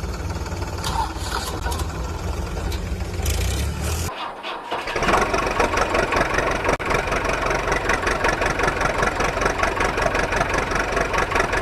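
Truck engine running with a low steady rumble, then after a short break about four seconds in, a busier, higher-pitched engine sound.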